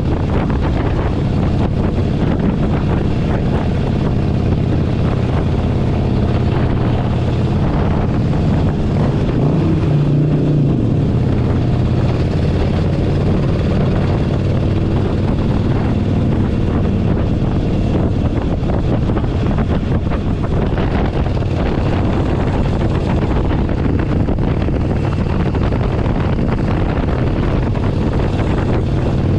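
Harley-Davidson Forty-Eight Sportster 1200's air-cooled V-twin engine running steadily on the road, with wind noise on the microphone.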